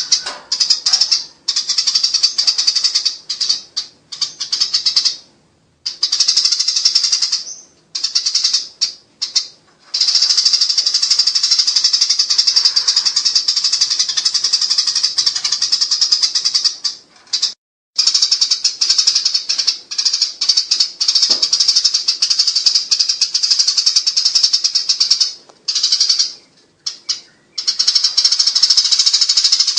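Eurasian tree sparrows giving their rapid, high-pitched fighting chatter, in long runs of several seconds broken by short pauses.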